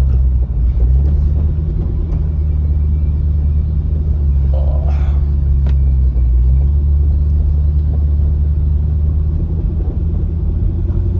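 Car engine and road rumble heard from inside the cabin while driving slowly; the low engine note shifts slightly in pitch about a second in and again at about six and a half seconds.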